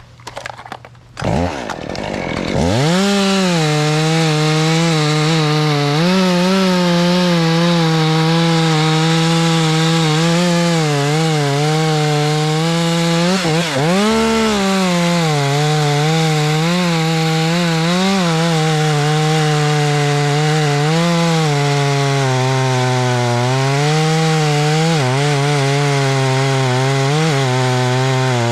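Two-stroke chainsaw revving up about a second in, then running at full throttle. Its pitch wavers and dips briefly near the middle, as a saw does under load in a cut.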